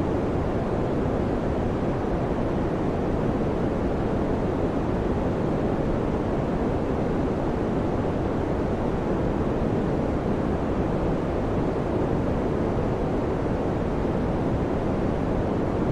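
Electric fan running steadily: an even, deep rush of air with no rhythm, clicks or changes in level.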